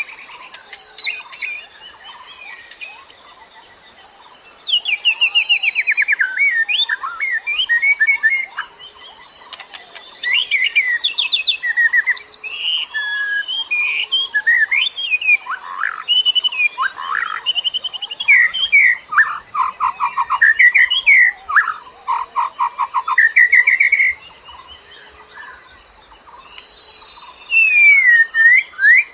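A songbird singing a loud, varied song of fast trills, quickly repeated notes and gliding whistles, in bursts of phrases with short pauses between them. It is lure birdsong of the kind played to attract wild birds.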